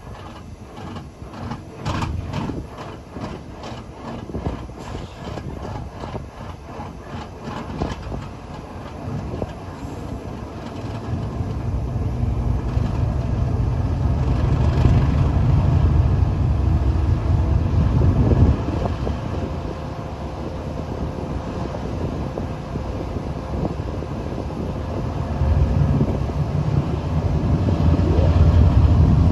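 Diesel freight train passing: about ten seconds of regular clicking from wheels over the rails, then the low rumble of the diesel locomotives growing loud. The rumble eases briefly and swells again near the end.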